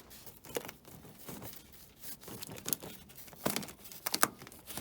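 Irregular crackling and crinkling, made of scattered small clicks, with a few sharper ones clustered in the second half.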